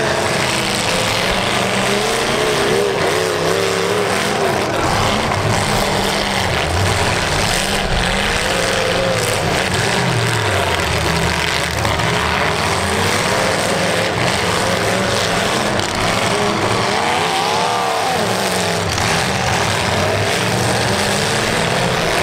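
Demolition derby cars' engines revving and falling back as the cars shove and ram one another, with thuds of collisions. The level is loud and steady.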